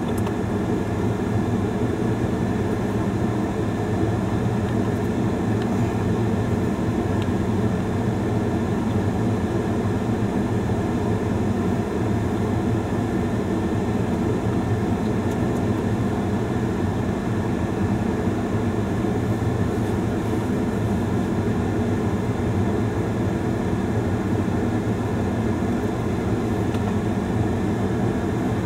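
Steady low hum of a vehicle's engine idling and its climate fan running, heard from inside the cabin.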